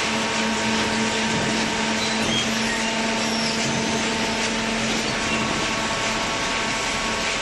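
Hydraulic cardboard baler running: a steady machine hum from its electric motor and hydraulic pump, with a constant low tone under a wash of noise.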